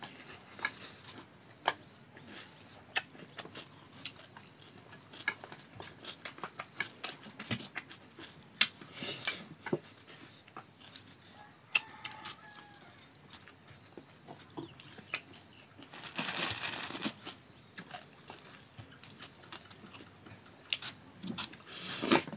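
Close-up eating sounds: crunching bites of raw cucumber and chewing, heard as many short, sharp crunches and mouth clicks. A burst of rustling noise lasts about a second and a half past the middle.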